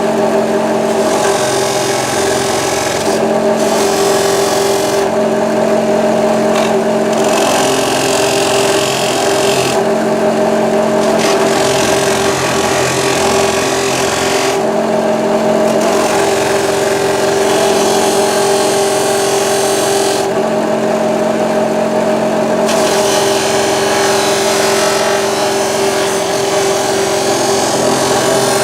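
Polishing machine motor running steadily with a buffing mop on stainless steel. A high hiss of the metal being pressed to the mop comes and goes every few seconds, while the motor's hum holds steady.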